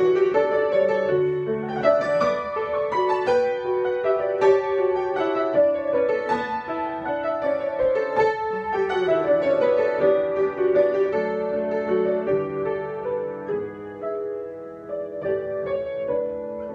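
Solo piano improvisation: chords under a melody of struck notes, growing quieter over the last few seconds.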